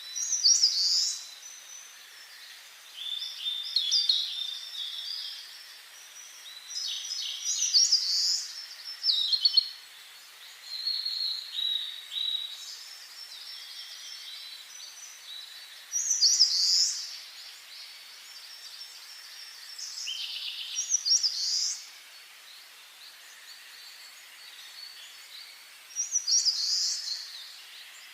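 Songbirds singing in a forest: short, high song phrases, each a second or two long, repeating every few seconds over a faint steady hiss.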